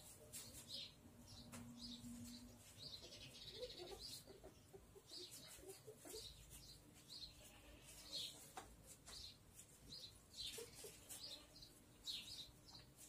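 Faint chirping of small birds: short high chirps repeating irregularly, one to two a second.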